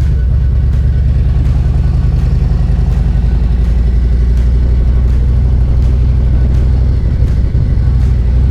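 Motorcycle engine running at low road speed, a steady low rumble, with a brief dip in the engine note about seven and a half seconds in.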